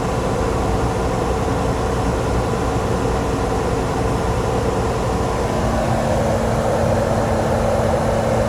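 Detroit DD15 diesel engine running steadily during a parked forced regeneration of its exhaust aftertreatment. About five and a half seconds in, its tone shifts to a lower hum.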